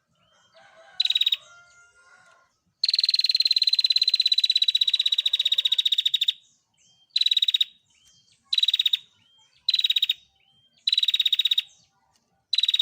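Female prenjak (bar-winged prinia) giving its rapid, buzzy trill. One long trill runs about three and a half seconds, followed by five short bursts of under a second each, with faint chirps between them.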